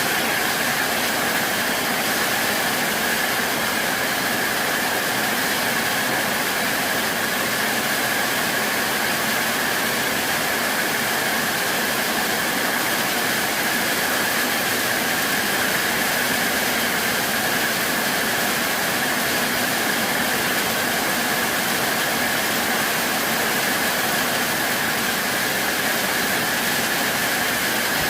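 Heavy rain pouring steadily during a rainstorm, a dense, even hiss that doesn't let up.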